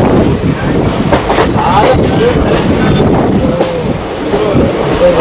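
Howrah–Vasco Amaravathi Express passenger train on the move: a loud, steady rumble and clatter of wheels running over the rails.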